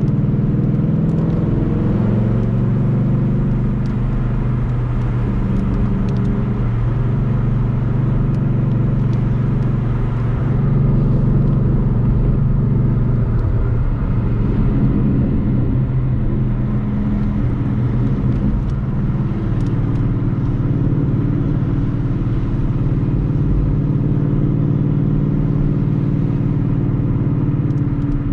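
Ford Mustang GT's 5.0-litre V8 running at a steady cruise, its low exhaust note rising and falling slightly in pitch now and then, over constant road noise.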